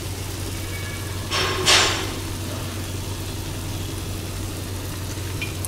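Bread patty frying in a shallow pan of oil: a faint hiss of the oil over a steady low hum, with a brief louder sizzle about a second and a half in.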